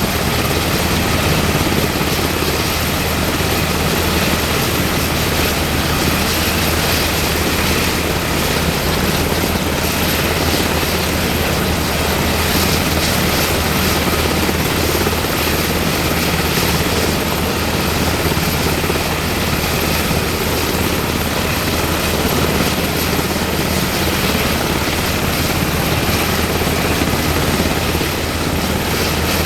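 UH-60M Black Hawk helicopter running steadily, its turbine engines and rotor making a loud, even noise with a deep low drone.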